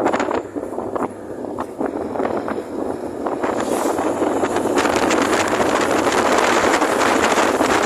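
Strong wind buffeting the microphone: a dense rushing noise with crackles, growing louder and steadier about three and a half seconds in.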